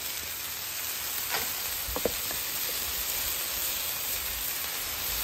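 Cornbread cake batter sizzling in butter and oil on a flat-top griddle: a steady frying hiss, with a couple of faint clicks about two seconds in.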